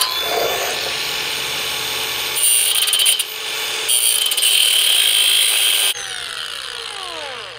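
Handheld grinder cutting and grinding a steel hinge bracket, its pitch shifting as the wheel bites, then released about six seconds in and spinning down with a falling whine.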